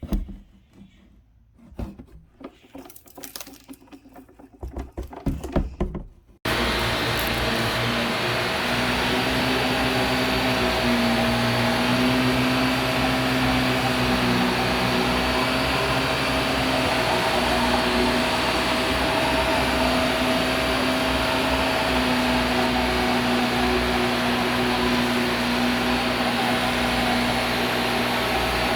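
A few scattered knocks and handling sounds, then about six seconds in a vacuum cleaner switches on abruptly and runs steadily at one pitch, a loud hiss with a steady hum.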